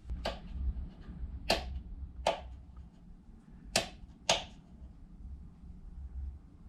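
Four sharp clicks spread through a few seconds, from a glass shade being fitted onto a 12-volt wall light fixture, over a faint low rumble.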